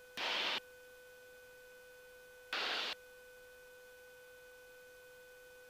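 Aircraft headset intercom audio, nearly silent apart from a faint steady electrical whine. It is broken twice by half-second bursts of hiss, near the start and about two and a half seconds in, as the intercom briefly opens and lets cabin noise through.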